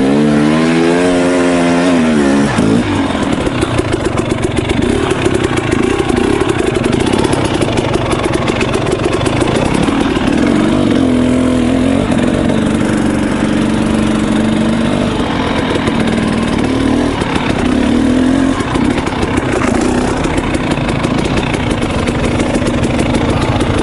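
KTM 300 XC two-stroke dirt-bike engine under hard throttle on a trail ride, its pitch climbing steeply over the first couple of seconds, then running on with repeated rises and dips as the throttle opens and closes.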